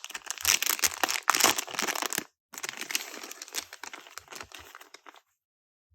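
Packaging crinkling and rustling as it is handled and opened, loudest in the first two seconds, then fainter after a short pause, stopping about five seconds in.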